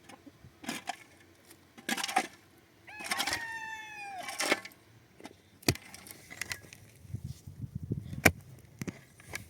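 A rooster crows once, a single long call that holds its pitch and then drops away. Scattered sharp knocks and clatter come before and after it.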